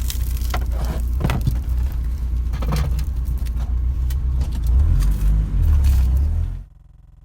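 A car driving, heard from inside the cabin: a steady low road rumble with small knocks and rattles, swelling briefly and then cutting off abruptly near the end.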